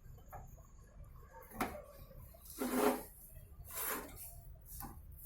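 Handling noises from taking apart a microwave oven: a knock, then a couple of louder scraping rustles of parts and tools, and a small click near the end.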